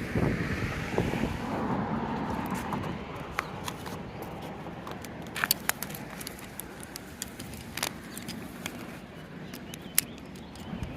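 A car passing on the road, its rushing sound fading over the first few seconds, then scattered light clicks and taps, with one sharp click near the end.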